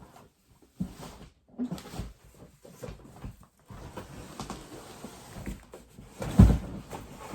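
Cardboard box rustling and knocking as a heavy electric scooter is tugged at inside it, with one loud thump about six and a half seconds in.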